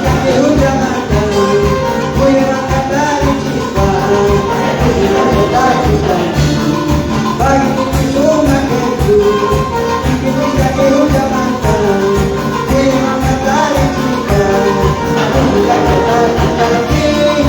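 Latin American Christian praise music played by a live band with a steady dance beat, percussion including tambourine, and melodic instrumental lines.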